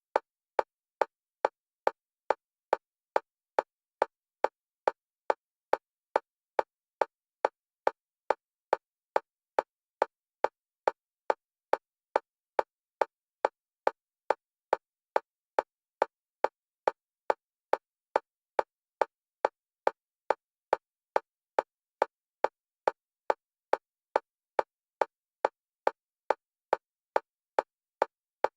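Fast, evenly spaced metronome clicks at one pitch, about two a second, each short and identical. The clicks alternate between the left and right stereo channels for EMDR bilateral stimulation.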